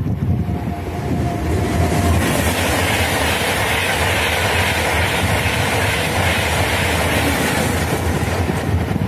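Frecciarossa high-speed electric train passing at speed: a rush of wheel and air noise builds about a second and a half in, holds for several seconds, and thins near the end as the train draws away.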